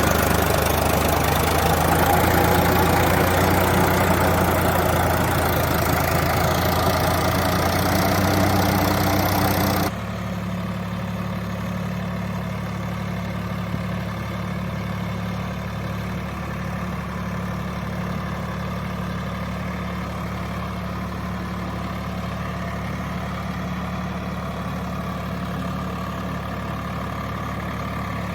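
Swaraj 744 FE tractor's three-cylinder diesel engine running under full load while ploughing mud. About ten seconds in the sound cuts abruptly to a quieter, steadier engine hum.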